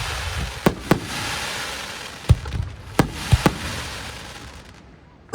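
Aerial firework shells bursting: about seven sharp bangs in the first three and a half seconds, some in quick pairs, then dying away to a lull.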